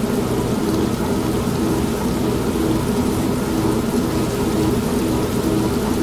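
Old manual washing machine running steadily with a low hum, mixed with continuous rain and rumbling thunder.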